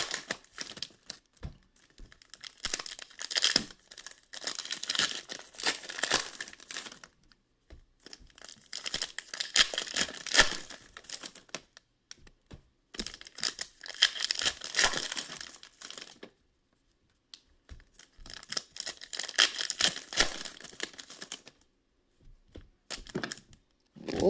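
Foil trading-card pack wrappers being torn open and crinkled, in several spells of a few seconds each with short pauses between.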